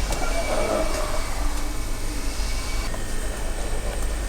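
Steady low background hum, with light rustling and handling noise in the first second or so as things are moved about on the bench while the programmer cable is looked for.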